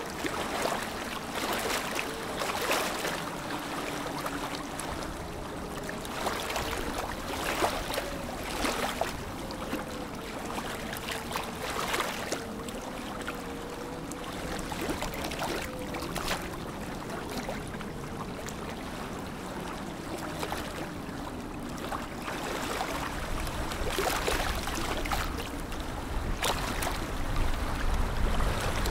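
Lake water lapping and splashing against the shore in small irregular waves, over a steady wash of water noise, with a faint wavering hum underneath.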